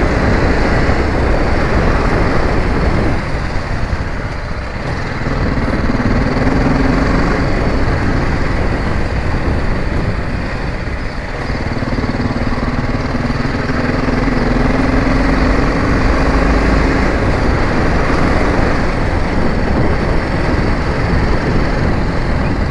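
Motorcycle engine running on the move, half buried in loud wind rush over the microphone. The engine's steady hum comes up clearly twice: briefly about a quarter of the way in, then for several seconds in the middle.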